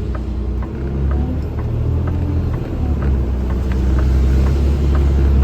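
Vehicle engine and road rumble heard from inside the cab, swelling about a second and a half in and again near the end as it pulls ahead, with a light ticking about twice a second.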